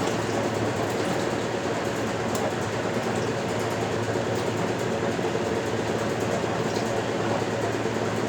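1977 Westinghouse Lavínia washing machine (model LWAAP6KX) running, a steady mechanical hum and rumble with a few faint ticks.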